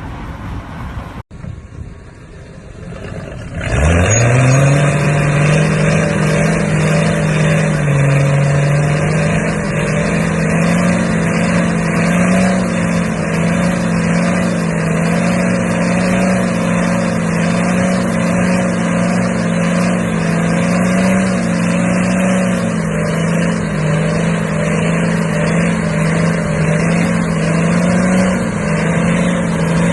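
A truck engine quickly spins up about four seconds in, then holds a steady, loud drone with small wavering in pitch.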